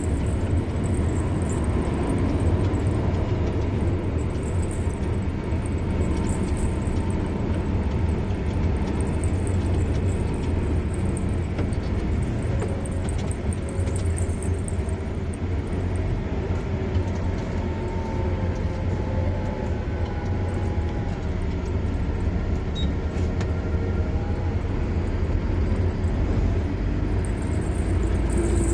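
Car driving at a steady pace, a constant low rumble of engine and tyres on the road.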